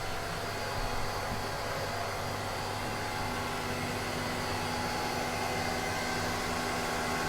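Steady mechanical hum and fan-like rushing of equipment running in a motor yacht's engine room, with faint constant tones underneath.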